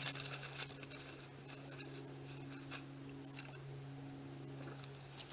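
Chickens shuffling and scratching about, heard as faint scattered taps and rustles, with a short knock right at the start and a steady low hum underneath.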